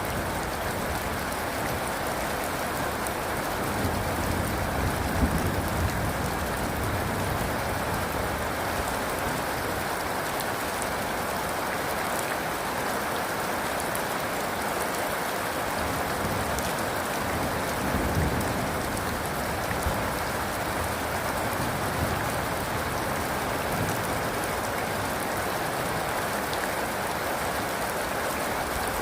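Steady rain falling on surfaces, an even dense hiss of drops.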